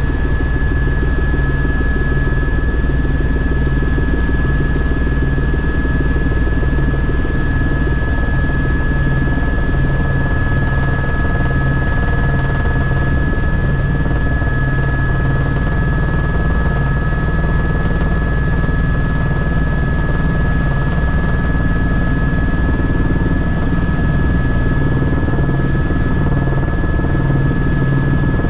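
Aircraft engines running steadily, heard from inside the passenger cabin: a constant drone with a steady high whine over a low rumble that wavers slightly.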